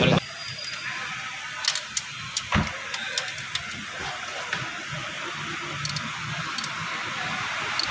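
Toyota Vios engine switched off right at the start, leaving a quieter stretch with scattered light clicks and metallic clinks. At the very end the engine starts up again.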